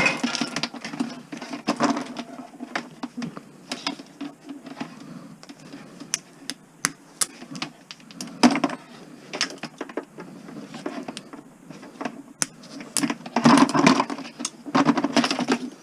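Irregular clicking and crackling of plastic being worked off Christmas-light wire, with scattered sharper clicks. The plastic is stiff and hard to get off, which he puts down to the cold making it brittle.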